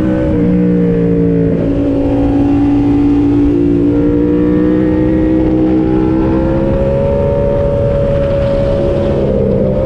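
Yamaha MT-07 parallel-twin engine under way, heard from the rider's position. Its note drops about a second and a half in, then climbs slowly and evenly, with a brief break near the end.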